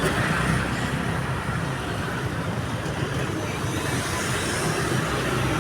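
Road traffic: motor vehicles with their engines running, a steady mix of engine hum and traffic noise.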